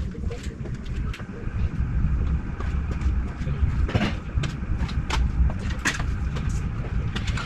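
Scattered short clicks and knocks of hand tools working bolts loose under a car engine, at irregular times, over a steady low rumble.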